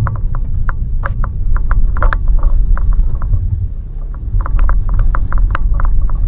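Car stuck in snow: a steady low engine and tyre rumble with rapid, irregular clicks and crunches of snow and ice as it tries to pull free, swelling louder about two seconds in and again near the end.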